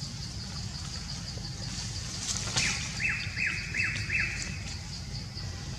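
A bird calls about two and a half seconds in: a sharp note, then four quick notes, each falling in pitch. Under it run a high pulsing trill and a low steady rumble.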